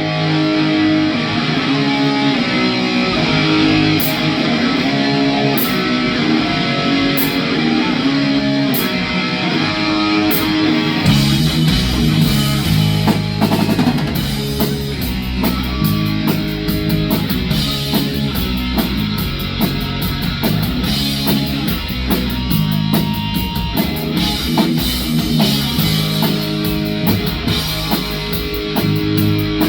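Rock band playing an instrumental intro live: a repeating electric guitar riff over sparse cymbal ticks, then drums and bass come in with the full band about eleven seconds in.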